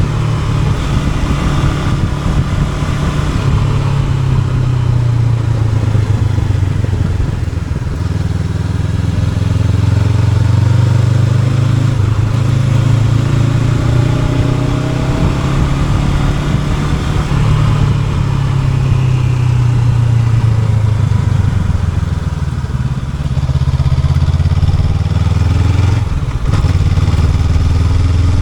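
Honda NX500 motorcycle's parallel-twin engine running under way, its pitch rising and falling as the throttle opens and closes, with a brief dip near the end.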